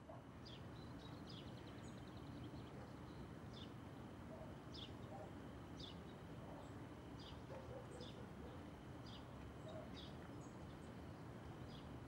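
Faint garden ambience: small birds chirping, short falling notes about once a second, over a steady low background hiss.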